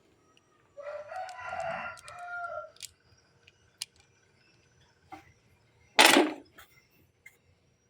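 A rooster crowing once, a call of several joined notes about two seconds long starting about a second in. A short, loud burst of noise follows around six seconds in.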